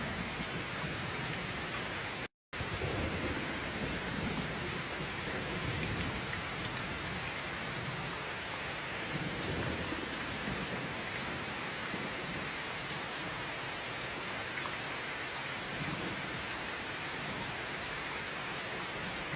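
Steady heavy rain hissing, with a low rumble swelling and fading underneath. The sound drops out completely for a split second about two seconds in.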